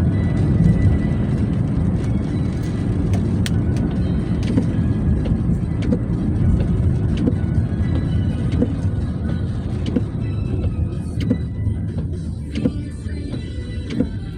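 Steady low road and engine rumble inside a moving car, with music playing from the car radio and scattered light ticks.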